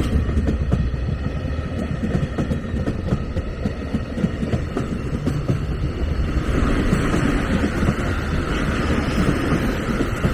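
Train running past on the rails: a steady low rumble with wheel clatter, and a higher rushing sound that builds from about six and a half seconds in.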